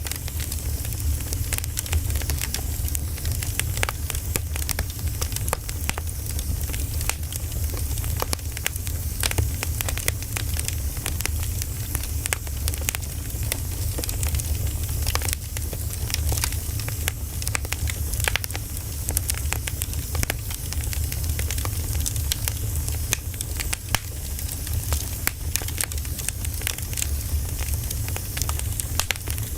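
Firewood burning with steady crackling: many sharp snaps and pops over a low, even rumble of the flames.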